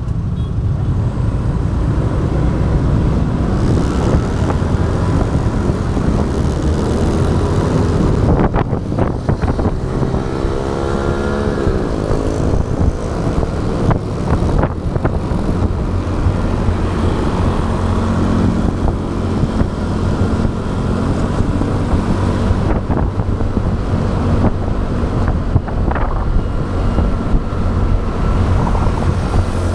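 Motorbike running on the road, heard from the rider's action camera, with heavy wind rumble on the microphone and traffic around it. About ten seconds in, a pitched sound glides briefly.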